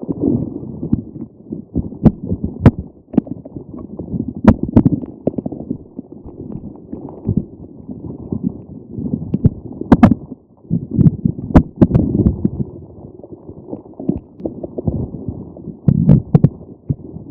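Squishy grape-ball stress toy squeezed and handled close to the microphone: irregular soft, low squishing, with scattered sharp clicks.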